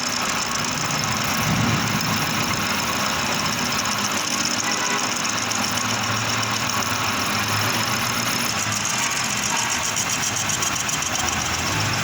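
Manual metal lathe running steadily while turning a stainless steel plate, a high cutting noise over a low motor hum.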